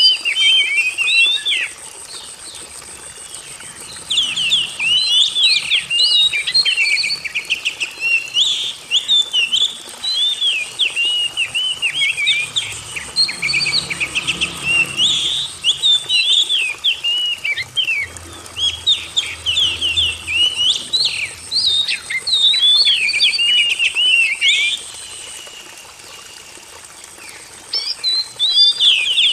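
Oriental magpie-robin (kacer) singing: fast, varied whistled phrases, pausing briefly about two seconds in and again near the end.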